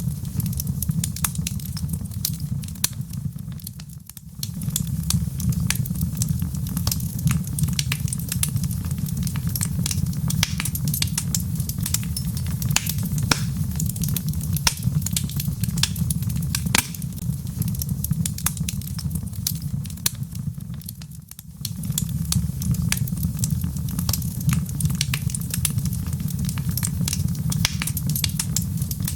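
Wood logs burning in a fireplace: a steady low roar of flame under dense, irregular crackling and popping. The roar fades briefly twice, about four seconds in and again about twenty-one seconds in.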